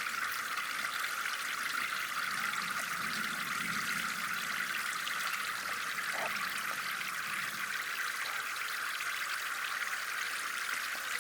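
Water trickling and running steadily, like a small stream flowing into a pond.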